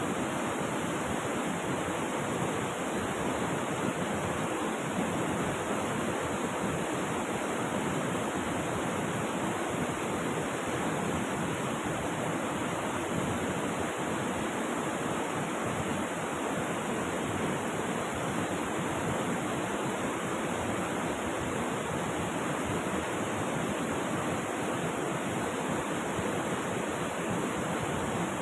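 Rushing river water: a steady, unbroken noise of flowing water.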